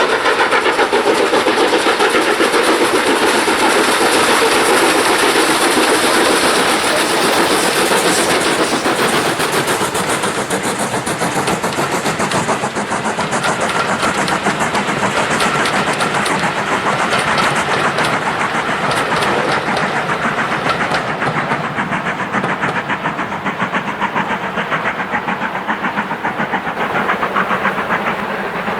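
Steam locomotive hauling a train, with a fast run of even beats over the clatter of the train on the rails; the higher hiss dies away about two-thirds of the way through.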